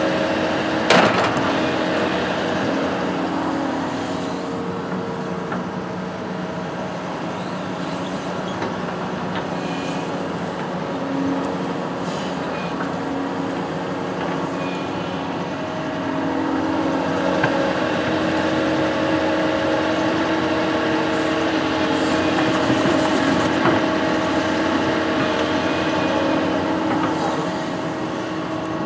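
Construction machine's engine running steadily, its pitch shifting a little up and down as it works, with one sharp knock about a second in.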